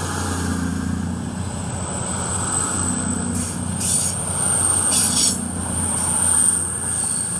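CrossCountry Voyager diesel multiple unit pulling out under power, its underfloor diesel engines running steadily, with a high thin whine over the top. Two short high rattles come about four and five seconds in.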